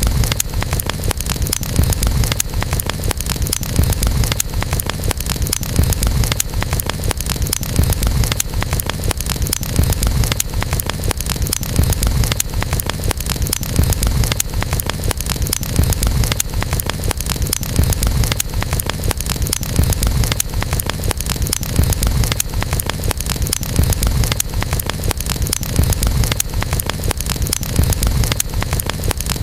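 Campfire burning, with dense, continual crackling of the wood over a steady low rumble.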